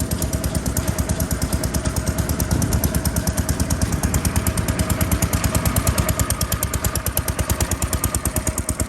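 Vintage stationary farm engines running in a rapid, even chug.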